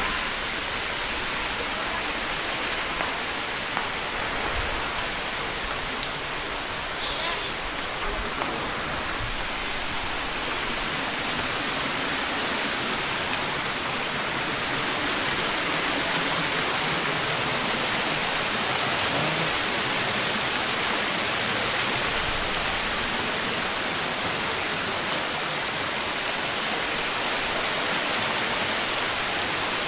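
Steady rush of flowing water, a little louder in the second half.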